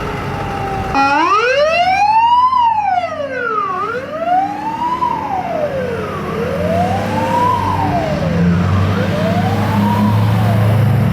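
Fire apparatus electronic siren: a tone slides down, then about a second in it jumps into a wail that rises and falls every couple of seconds. A truck's diesel engine rumbles underneath, growing in the second half.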